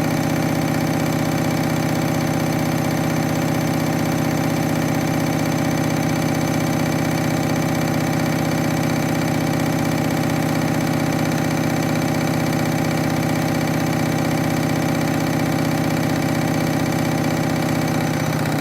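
Front-loading washing machine spinning a load of towels, its motor and drum giving a steady hum at constant speed.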